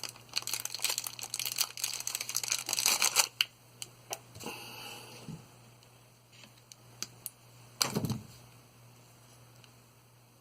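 Dense crinkling and rustling of handled plastic for about three seconds, then a few light clicks and one soft knock, as a length of black wire is picked out and handled.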